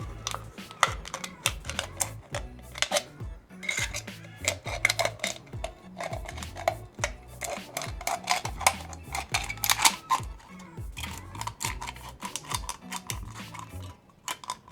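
Scissors snipping through a thin aluminium drink can, a run of sharp metallic clicks and crinkles, over background music with a steady low beat.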